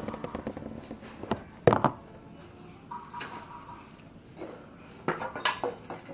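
A few knocks and clatters of hard objects being handled, the loudest about two seconds in and a quick cluster near the end.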